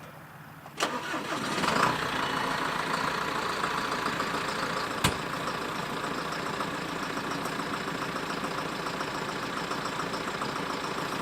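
An engine starts with a click about a second in, builds up over the next second and then runs steadily at idle.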